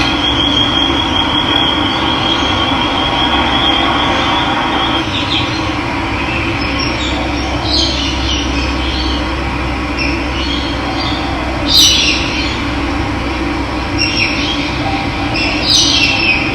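Running water rushing steadily, with birds chirping over it: a thin wavering high trill in the first few seconds, then scattered short calls, the loudest about twelve seconds in.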